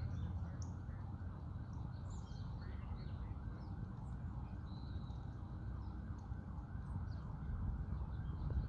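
Steady breeze over an open grassy hillside, a low even rush, with faint scattered bird chirps.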